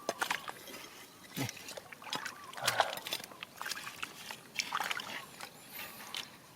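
Water splashing in a shallow river with many sharp clicks and knocks of stones and gravel being handled, the loudest about three seconds in.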